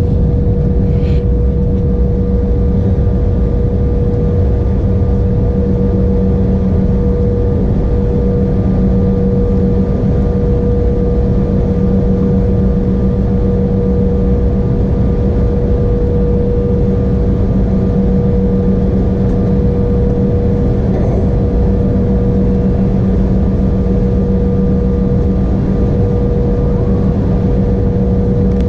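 Steady engine drone inside the cabin of an Embraer E175 airliner, from its GE CF34-8E turbofans: an even low rumble with a constant hum of steady tones.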